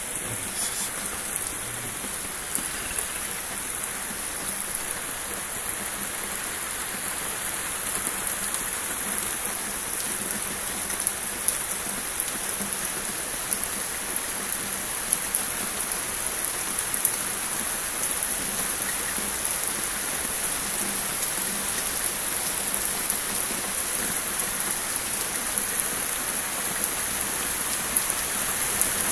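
Rain falling steadily during a thunderstorm, with many scattered sharper drop hits, slowly growing louder.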